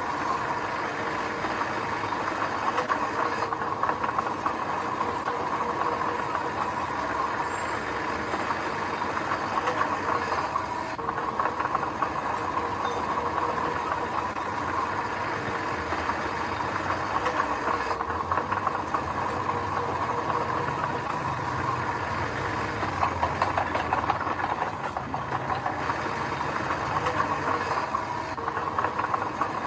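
Heavy construction machinery's diesel engine running steadily, with a dense clattering.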